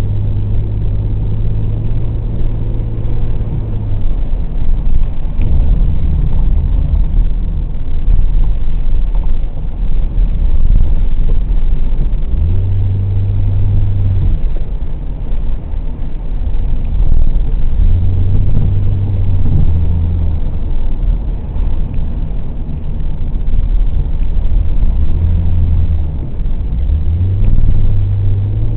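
Sports car engine pulling and easing off repeatedly on a winding drive, under a heavy low rumble. Its deep drone swells in several stretches and fades between them as the throttle comes on and off.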